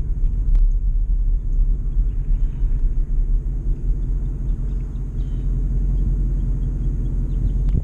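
Ford Mustang convertible's engine and exhaust running as the car rolls slowly, a steady low rumble.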